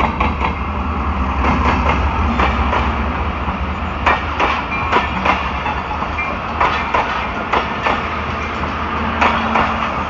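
ZCU-30 diesel locomotive rumbling past on arrival, then a slow-moving train of passenger coaches rolling by, its wheels knocking over the rail joints again and again. The deep engine rumble is strongest in the first few seconds and fades as the coaches follow.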